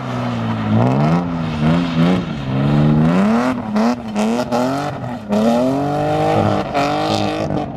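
BMW E36 drift car's engine revving up and down repeatedly as it is driven through a drift, the pitch climbing and dropping about once a second.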